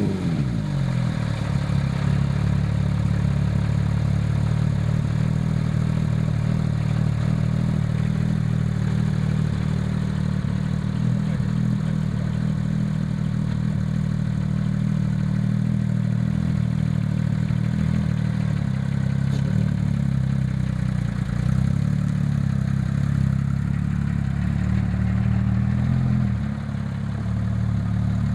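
Porsche 997 GT3 RS 3.6-litre flat-six idling steadily just after starting. It breathes through aftermarket sport headers, side muffler bypass pipes and Maxflo mufflers.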